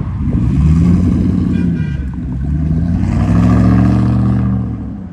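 Ford Mustang with an SR Performance axle-back exhaust, loud, in two swells of engine revs that rise and fall, the second one longer.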